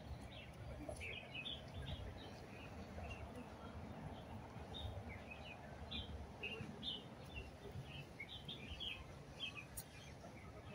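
Small birds chirping in the trees: many short, high chirps, scattered irregularly, over a faint low background rumble.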